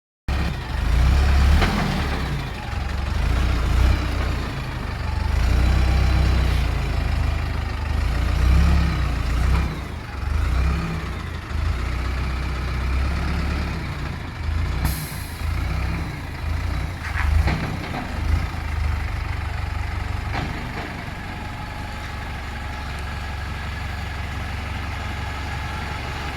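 Truck engine running on a test drive, its note rising and falling with the throttle for about twenty seconds before settling to a steadier, lower running sound. A short hiss comes about halfway through.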